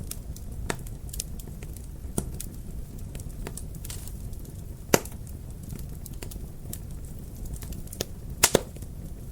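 Wood fire crackling in a fireplace: a steady low rumble of flames with scattered sharp pops and snaps, the loudest about five seconds in and a quick pair near the end.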